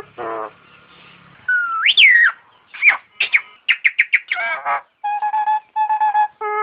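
Jalak nias (Nias myna) calling in a quick, varied run of whistled notes: held steady notes, a whistle that rises and then falls about two seconds in, and a rapid string of short clipped notes just before the middle.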